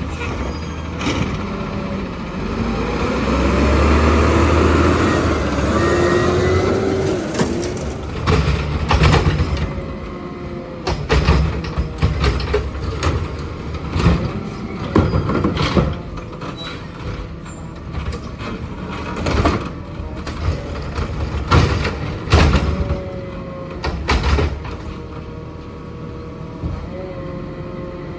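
Garbage truck at work: its diesel engine revs up for a few seconds near the start, then comes a string of sharp metal clanks and knocks.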